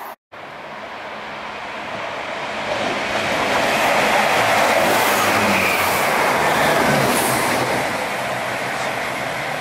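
Chiltern Railways diesel multiple unit approaching and running past along the platform. Engine and wheel-on-rail noise grows, is loudest around the middle, then eases off.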